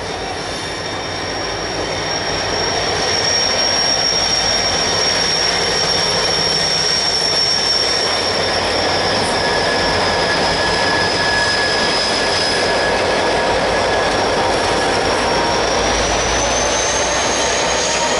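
BNSF freight train's diesel locomotives running as they pass close by, getting louder over the first few seconds as the lead units come alongside, then holding steady. A thin, steady high squeal runs throughout and rises slightly in pitch near the end.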